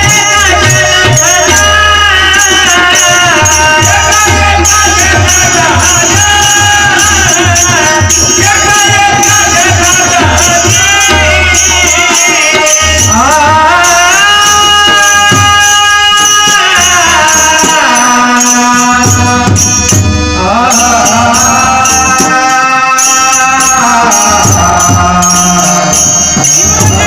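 Marathi abhang devotional music: a voice singing a long, drawn-out gliding melody over small hand cymbals keeping a steady rapid beat and a low drum, which drops out about halfway through.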